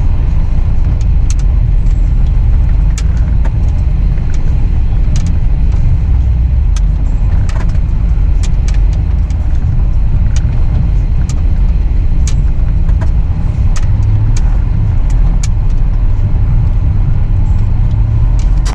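Off-road truck driving on a snowy trail: a steady, loud low rumble from the engine and drivetrain, with frequent sharp clicks and rattles scattered through it.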